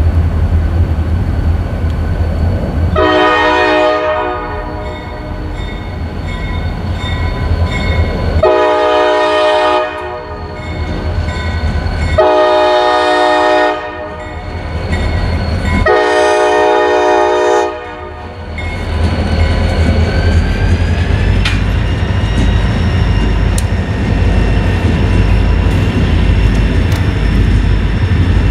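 A freight diesel locomotive's multi-note air horn sounds four blasts for a grade crossing, each about a second and a half long. The engine and train rumble continuously underneath.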